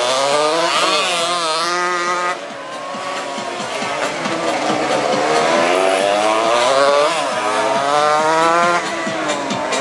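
Several 200 cc racing motorcycle engines at high revs, passing in a race. The pitch of the notes climbs under acceleration and falls away sharply twice, about two seconds in and near the end.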